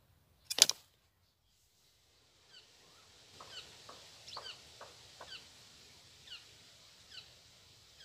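A single sharp click about half a second in, then, from about two and a half seconds on, a small bird chirping over and over: short, high, falling calls every half second or so over a faint hiss.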